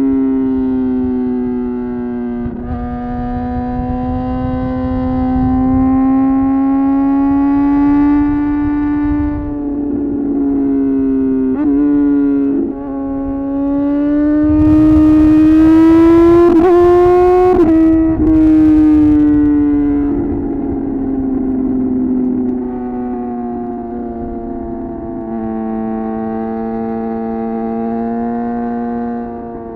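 Suzuki GSX-R750 inline-four sport bike engine and exhaust under way, its note rising and falling with the throttle and broken by a few quick dips. Past the middle it climbs to its highest and loudest, then drops away sharply.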